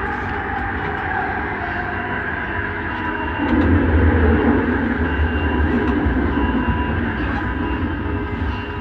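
Inside a Bombardier Innovia Metro 300 linear-induction-motor metro car running between stations: steady running noise with a faint whine, and a low rumble that grows louder about three and a half seconds in and stays up until near the end.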